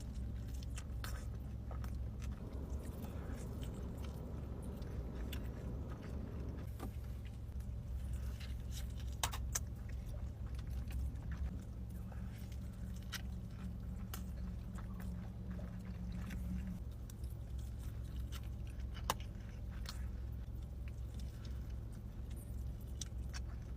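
Close-up chewing and biting of a burrito, with wet mouth clicks and smacks scattered throughout, over a steady low hum.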